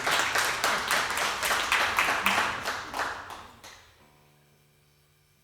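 Small audience applauding with dense hand claps, which fade out about three and a half seconds in, leaving a quiet room hum.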